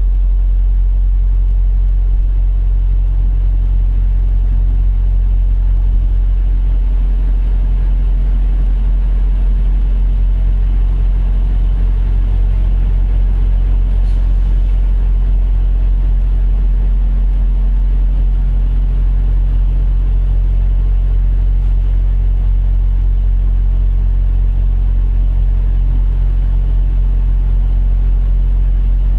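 Semi-truck diesel engine idling steadily, a low even rumble.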